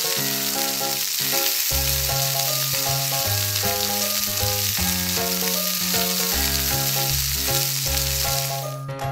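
Sizzle of an egg frying in a pan, a dubbed sound effect, that cuts off near the end. Under it runs a children's background tune with a steady bass line.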